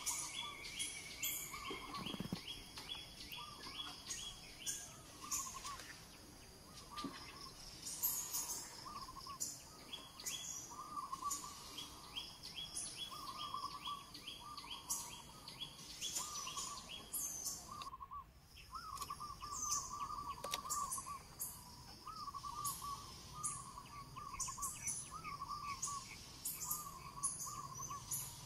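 Birds calling outdoors: one short warbling call is repeated again and again, over many quick high chirps and rapid ticking.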